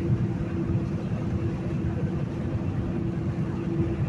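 Semi-truck heard from inside the cab at highway speed: a steady low engine-and-road drone with a constant hum running through it.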